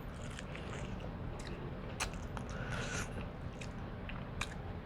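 Close-miked mouth sounds of eating lobster: chewing and biting, with scattered small wet clicks and a brief hissing noise about three seconds in.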